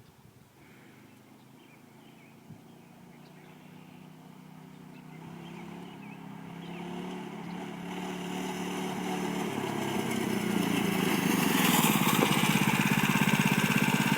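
Baja mini bike's small single-cylinder engine approaching from a distance, growing steadily louder until it is close and loudest about twelve seconds in.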